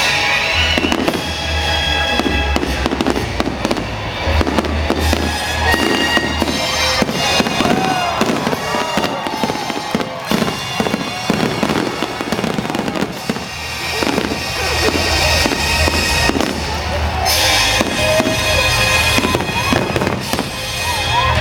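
Aerial fireworks display: a dense, continuous run of booms and bangs with music playing underneath.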